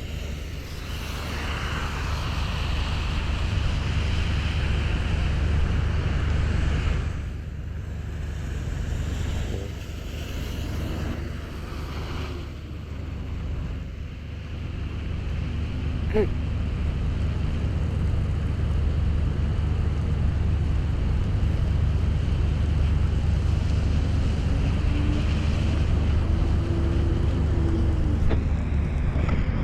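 Wind rushing over the microphone of a bike-mounted camera while riding, a steady low buffeting over the hiss of a wet road. A faint tone wavers up and down near the end.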